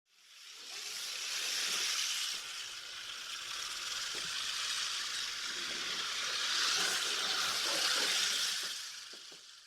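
Crested porcupine rattling its quills: a dry, hissing rattle with faint clicks, fading in at the start and out near the end.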